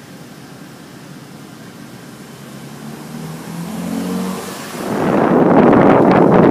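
Steady storm noise of rain and wind, with a low rumble building about halfway through, then wind suddenly buffeting the microphone loudly near the end.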